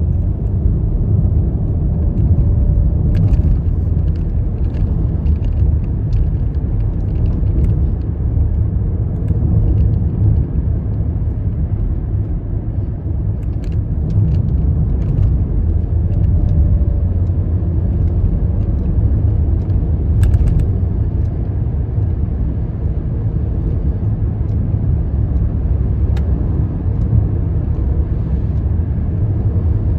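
Steady low road and engine rumble heard from inside a car's cabin while driving, with a few faint clicks scattered through it.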